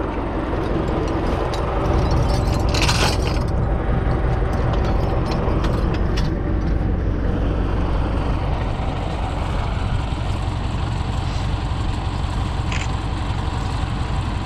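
U650 tractor's four-cylinder diesel engine running steadily, a little louder about two seconds in, with a short hiss about three seconds in.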